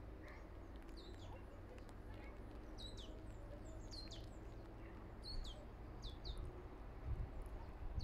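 Small songbirds calling with short, high chirps that sweep downward, several coming in quick pairs, over a steady low rumble.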